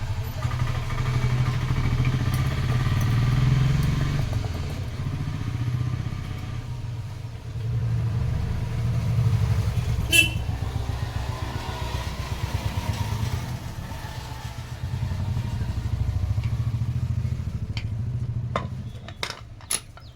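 A small engine running steadily at low revs, its speed easing up and down a little. There is one sharp metallic click about halfway, and several light metal clinks near the end.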